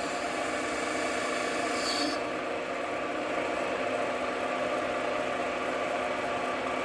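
JFMT metal lathe running steadily while turning down a stud in 3 mm depth-of-cut passes, with several steady tones from the machine's drive. A higher hiss from the cut, with a short squeak, drops away about two seconds in, and the lathe keeps running.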